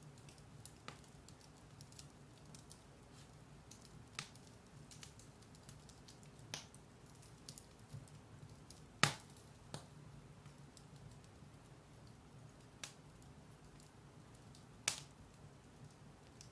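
Firewood burning in a fireplace: a low steady hiss with scattered sharp crackles and pops, the loudest pop about nine seconds in and another near the end.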